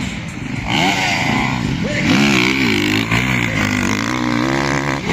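Motorcycle engine revving, its pitch rising and falling again and again from about a second in.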